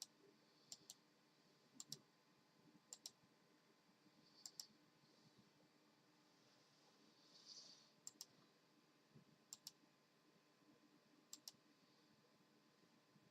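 Faint pairs of sharp clicks, seven double clicks at irregular intervals, with a brief soft hiss a little past halfway.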